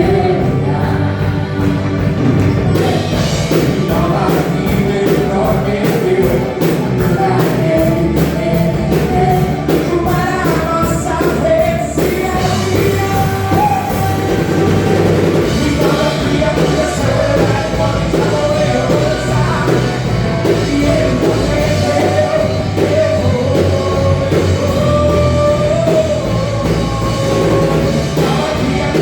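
Amplified band music with a steady drum beat and singing: a lively praise song performed live.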